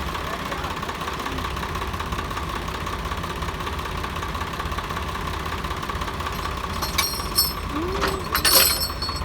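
Swaraj 855 tractor's three-cylinder diesel engine idling with a steady, even beat. Near the end come a few sharp metallic clanks.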